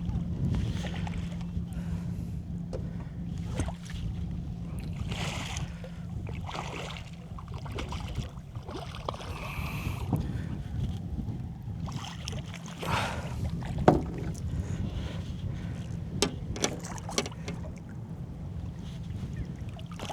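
Water slapping against a small boat's hull in strong wind, with wind rumbling on the microphone and scattered knocks, one sharp knock about two-thirds of the way through.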